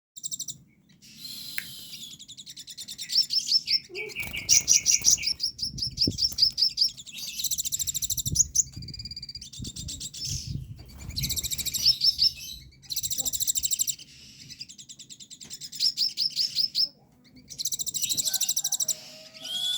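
Olive-backed sunbird (kolibri ninja) singing a loud, varied song of rapid high trills and quick repeated chips, in phrases of one to two seconds with short pauses between. It is a sunbird trained with isian, a song filled with phrases learned from other birds.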